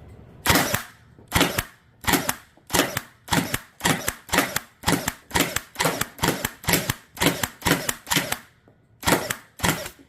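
Blizzard Pyro dart blaster firing a long run of rapid shots, about two to three a second, fed from a Worker 18 magazine. Near the end the firing pauses briefly, then two more shots follow.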